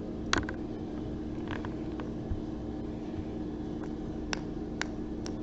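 Small objects being handled: one sharp tap or clink with a short ring about a third of a second in, then a few fainter clicks spread through, over a steady low hum.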